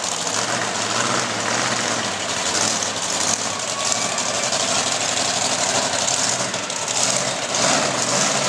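Predator monster truck's engine running steadily.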